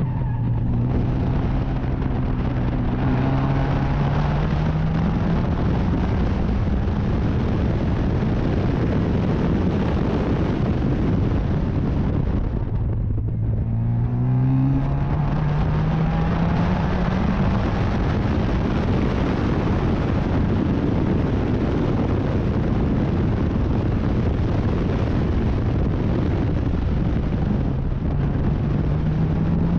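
Racing car engine under hard acceleration, its pitch climbing steadily through a long pull, easing briefly about thirteen seconds in, then climbing again, with a heavy rush of noise throughout.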